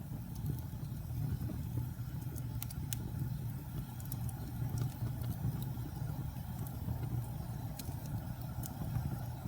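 Wood fire crackling in a fireplace: a steady low rumble of the flames with scattered sharp pops and snaps every second or so.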